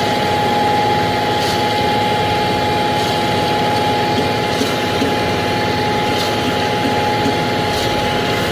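Cement mixer truck engine running steadily at idle, a dense diesel-like rumble with a constant whine on top.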